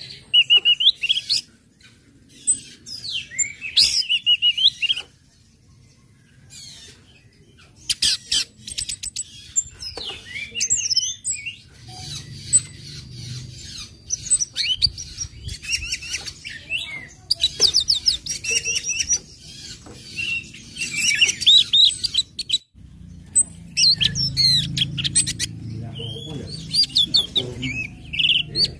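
Orange-headed thrush (anis merah) singing: bursts of quick, varied high whistles and chattering notes, separated by short pauses.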